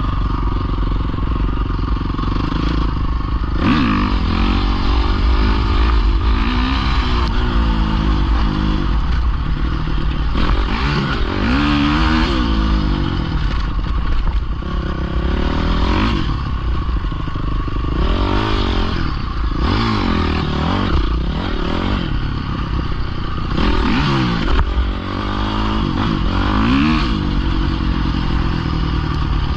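Pit bike engine revving up and down over and over, its pitch rising and falling every second or two as the throttle is worked, over a deep steady rumble.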